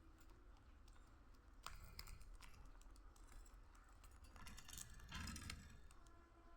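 Faint, irregular clicking and crunching from budgies nibbling fresh leaves, busiest about two seconds in and again after the middle.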